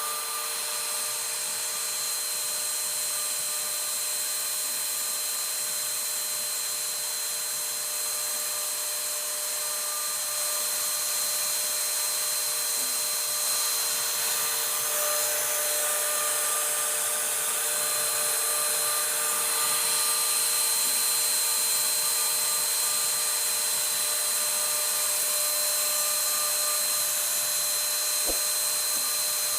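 CNC router spindle running steadily as it cuts wood: a continuous high whine over a hiss, with one short click near the end.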